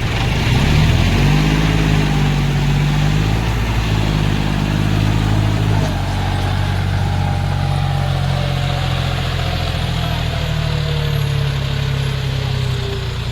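Tractor diesel engine running, its pitch rising as it revs about a second in and then holding steady under load. A thin whine slowly falls in pitch through the second half.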